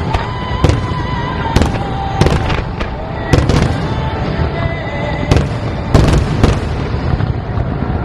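Fireworks display: aerial shells bursting in sharp, loud bangs, about a dozen at irregular intervals over a continuous low rumble.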